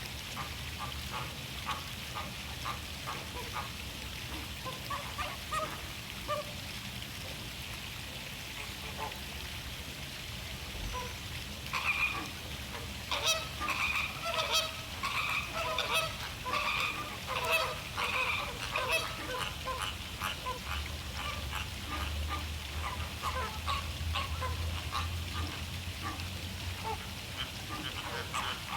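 A flock of American flamingos honking in goose-like calls, many birds calling over each other; the chatter grows busier and louder about twelve seconds in.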